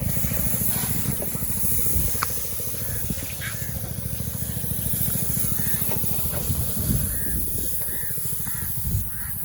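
Pressure-washer jet spraying water over a car being washed: a steady hiss over the low, steady hum of the washer's motor.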